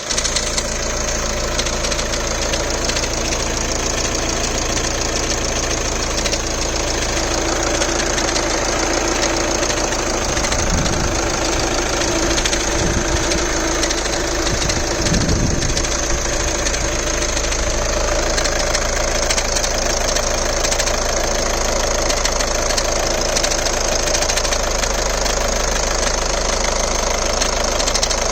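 Volkswagen Golf engine idling after a cold start with a rapid, steady clicking from the engine, a noise whose cause the owner does not know.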